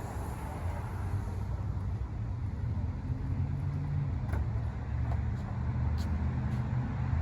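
Car running, a steady low rumble with a few faint clicks.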